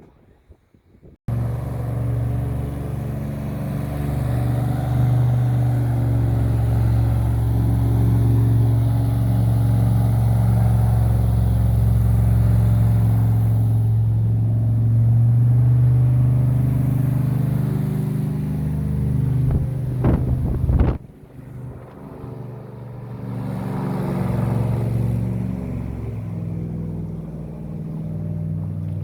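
An airboat's engine and propeller running with a steady low drone as it goes by. It is loud for the first two-thirds, then drops off sharply and carries on more quietly.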